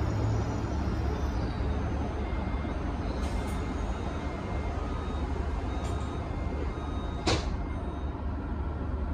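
Steady low rumble and hum inside a commuter train coach, with a few faint clicks and one sharp clack about seven seconds in.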